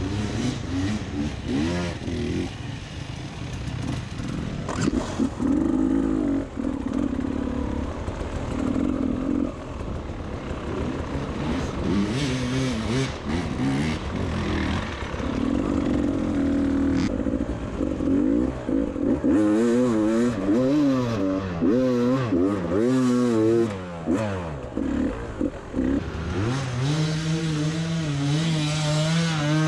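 Beta 300 RR two-stroke enduro bike engine revving up and down under riding throttle, with quick throttle blips over a few seconds past the middle, then holding a steadier, higher note near the end.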